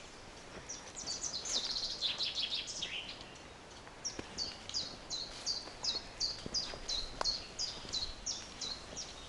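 Songbird singing: a quick jumble of high notes for about two seconds, then, after a short pause, a run of about a dozen repeated high notes, each slurring downward, roughly two and a half a second.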